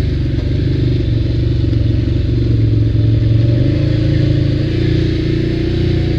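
ATV engine running steadily while riding, its note rising slightly a little past halfway.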